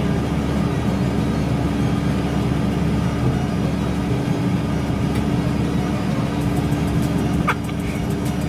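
Engine of a heavy machine running steadily, with one brief high squeak about seven and a half seconds in.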